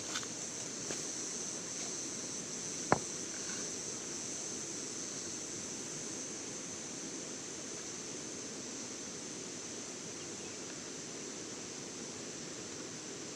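Steady high-pitched insect chorus over an even background hiss, with one sharp crack about three seconds in.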